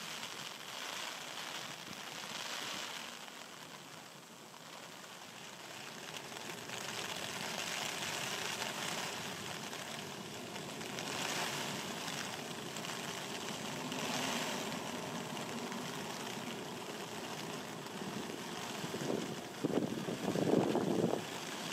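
Heavy rain falling steadily, swelling and easing every few seconds, with louder low rumbling surges near the end.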